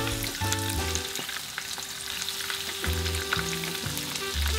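Panko-breaded shrimp deep-frying in hot oil in a pan, a steady crackling sizzle full of small pops as they fry to golden brown. Soft background music runs underneath.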